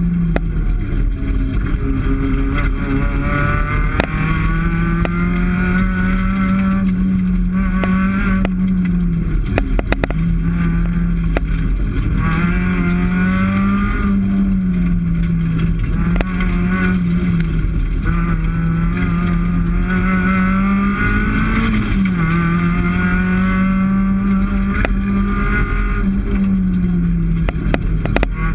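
Rally car engine heard from inside the cabin, running hard along the stage, its pitch climbing and dropping back again and again as it accelerates and shifts. A few sharp knocks and clicks about a third of the way in.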